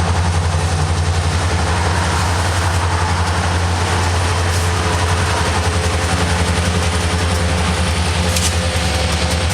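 Freight train passing close by: the deep, steady drone of diesel locomotive engines, with a fast even pulse, over the continuous rumble and hiss of wheels on rail.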